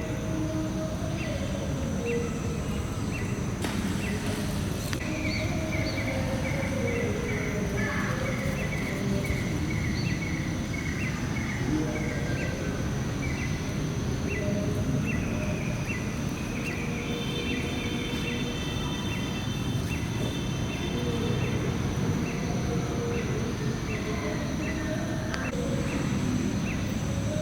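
Outdoor natural ambience: a steady low rumble of noise under a high, steady insect drone, with a bird chirping in short, quick repeated notes, most busily over a few seconds in the first half.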